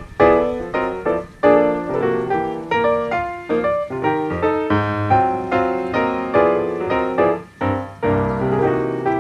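Background piano music, a run of struck notes and chords at a lively pace.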